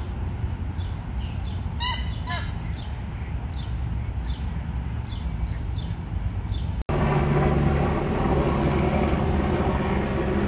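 Birds calling outdoors: a songbird repeats a short, high, falling chirp about every half second, and two harsh calls ring out about two seconds in. After a sudden cut near seven seconds, a louder steady rushing noise takes over.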